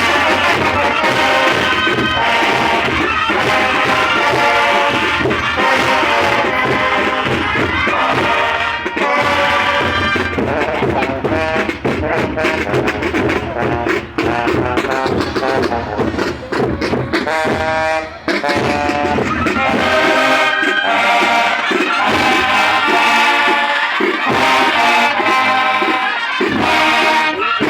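Student brass band playing a marching tune, with massed brass instruments carrying the melody over drums. The low bass drops out for several seconds about two-thirds of the way through, then returns.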